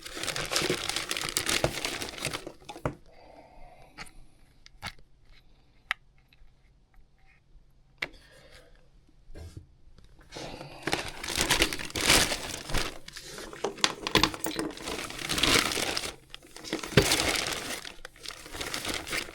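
Rustling and crinkling as tools and test gear are handled, in two spells with scattered clicks and knocks in a quieter middle stretch.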